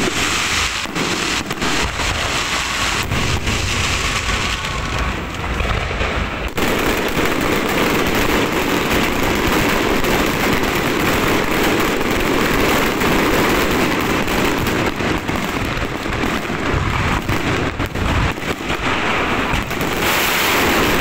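Firecrackers going off in a dense, unbroken crackle of rapid pops, the sound changing about six seconds in.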